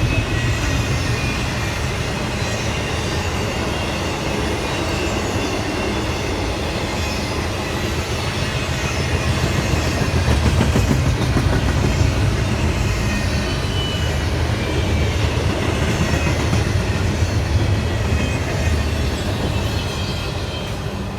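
A train rolling past, its wheels running steadily on the rails with a continuous low rumble, easing off slightly near the end.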